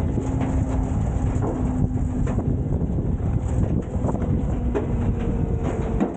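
Garbage truck engine running under load, with a steady whine that steps up in pitch about halfway through and scattered clanks and knocks of metal and debris.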